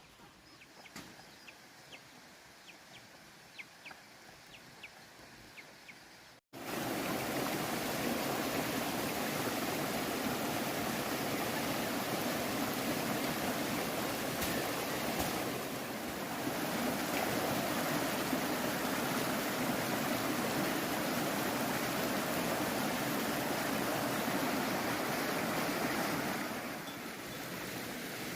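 Steady rushing of flowing water that starts abruptly about six seconds in, after a few seconds of faint ticking, and eases slightly near the end.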